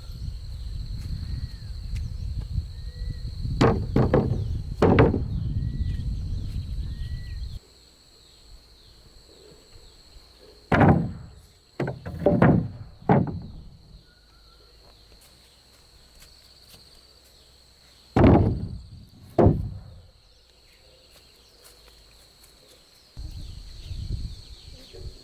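Heavy knocks on timber, about nine sharp strikes in irregular groups of two or three a second or so apart, as wooden parts are worked or struck. A low rumble under the first knocks cuts off suddenly about a third of the way in.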